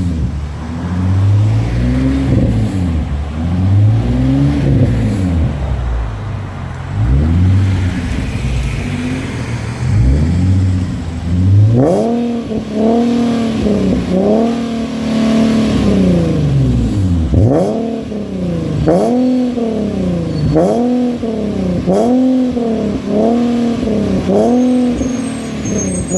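Infiniti G37 coupe's 3.7-litre V6 through an aftermarket exhaust (Tanabe axle-back and mid-pipe, Megan Racing Y-pipe, Berk high-flow cats), revved over and over, its pitch rising and falling with each rev. About halfway through, the revs come higher and quicker, roughly one a second.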